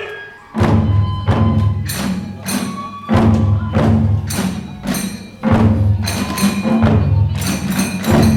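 Kagura hayashi accompaniment: big taiko drum beating a fast driving rhythm with small drums, jangling tebyoshi hand cymbals clashing, and a bamboo fue flute playing over them. The band comes in after a brief pause about half a second in.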